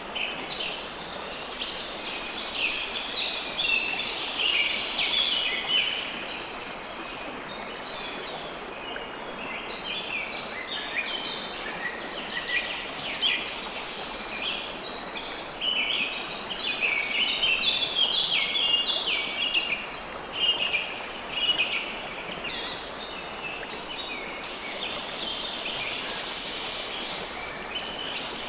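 River water flowing steadily, with many birds chirping over it; the chirping comes and goes, busier at the start and again about halfway through.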